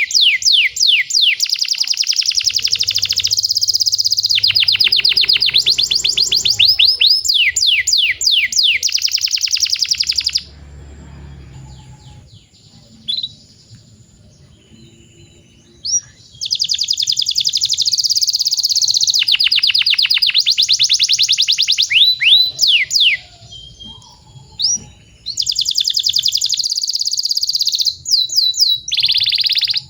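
Domestic canary singing long, fast rolling trills and down-sweeping notes. The song breaks off about ten seconds in for a few seconds, with only a couple of short single notes, then resumes with another brief pause later.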